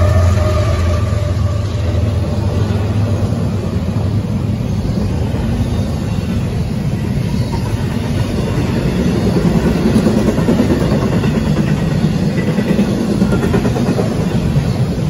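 Mid-train GE ES44AH diesel locomotive (distributed-power unit) going past, its low engine hum fading over the first few seconds. Then the steady rumble and clickety-clack of loaded double-stack container well cars rolling by.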